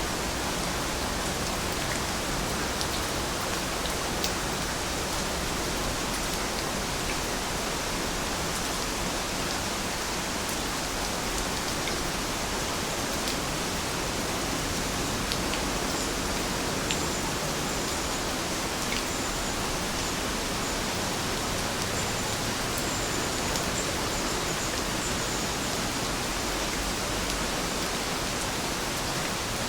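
Steady rain falling: an even hiss, with occasional drops ticking sharply.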